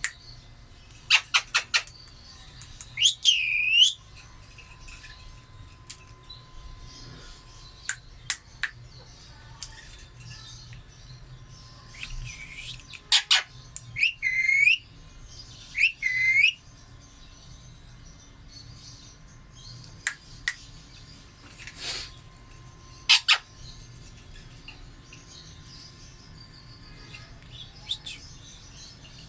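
Pet green parrot calling on and off: short sharp chirps and several longer screeching calls, each under a second or so, with quiet gaps between them.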